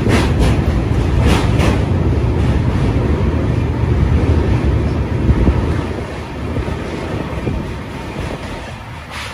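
Train running over a steel truss railway bridge, heard from aboard: a steady low rumble of wheels on rails, with a few sharp clacks in the first two seconds, easing off a little after about six seconds.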